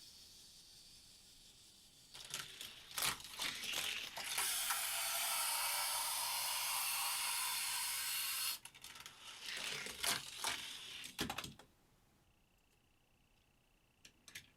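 Hot Wheels die-cast car running through a plastic toy track layout: clicks and rattles as it gets going, a steady rush for about four seconds in the middle, then a few clattering knocks before it goes quiet near the end.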